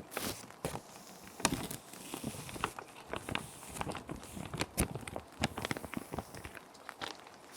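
Plastic sheet protectors crinkling and crackling as paper sheets are slid into them and handled, in quick irregular crackles that thin out near the end, over a steady background of rain.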